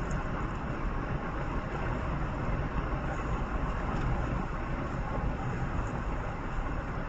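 Steady rumble of road and engine noise from a moving vehicle on the road, even in level with no distinct events.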